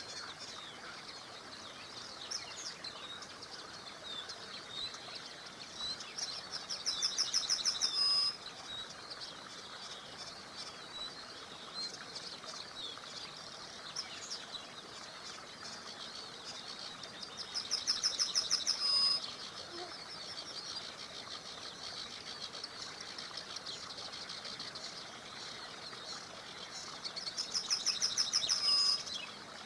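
A songbird repeating a rapid trilled song about every ten seconds, three times, each phrase lasting about two seconds, growing louder and ending abruptly. Scattered short chirps from other birds sound over a steady soft hiss.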